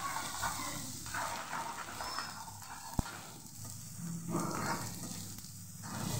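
Metal ladle stirring and scraping a tomato-onion masala around a metal kadai as it sizzles in hot oil. There is a single sharp click about three seconds in.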